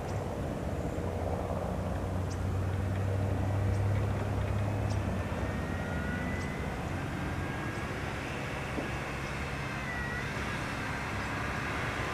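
Cessna 172R Skyhawk's four-cylinder piston engine and propeller at full takeoff power, a steady drone that is loudest about four seconds in and then eases off as the plane climbs away.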